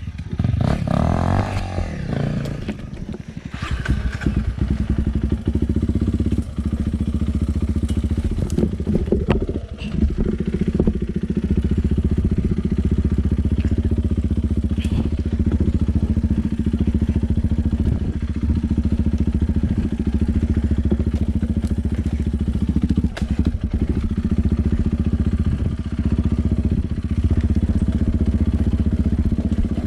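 Enduro dirt bike's engine running steadily, with a change in pitch in the first few seconds and scattered knocks and clatter.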